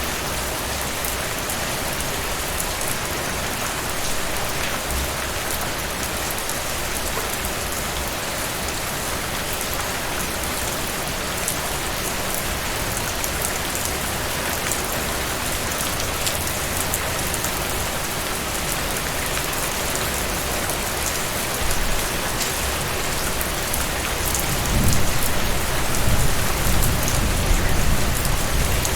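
Heavy rain falling: a steady, dense hiss with scattered sharp drop ticks. A low rumble swells in over the last few seconds.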